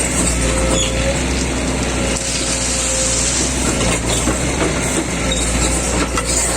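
Track-repair machinery running: a steady engine hum under dense, continuous crunching and rattling noise with scattered clicks, as rail ballast is worked to raise the track.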